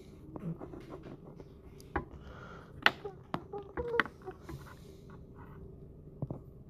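A handful of sharp, irregular clicks and taps, the loudest about three and four seconds in, with faint snatches of voices.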